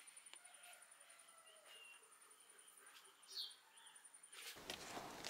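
Near silence: faint outdoor ambience with a few faint bird chirps, the clearest one about three and a half seconds in, over a thin steady high tone.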